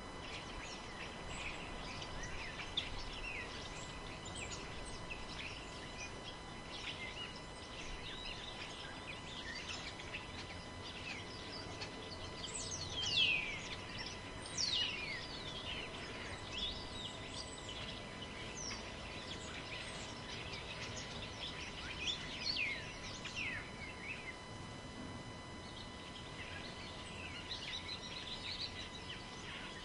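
Forest birds calling: many short chirps and quick downward-sweeping whistles, busiest and loudest in the middle, over a low steady rumble of wind.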